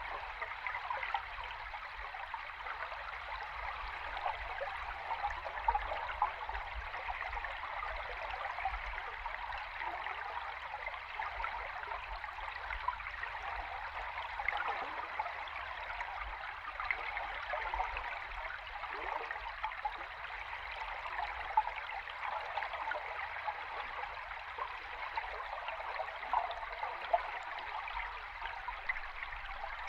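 A flowing river stream heard underwater: a steady rushing with small bubbling pops over a low rumble.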